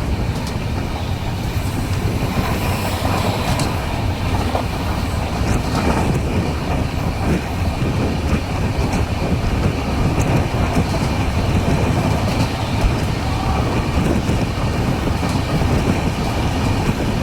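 A passenger express train running along the track: a steady rumble of wheels on rail with a few faint clicks.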